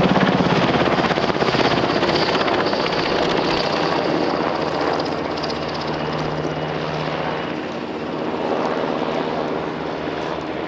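NH90 military helicopter in flight: rotor and twin-turbine noise with a high turbine whine, gradually getting quieter.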